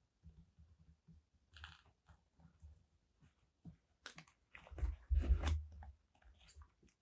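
Paper handled close to the microphone: crinkling rustles and soft taps, loudest about five seconds in, with a few low thumps.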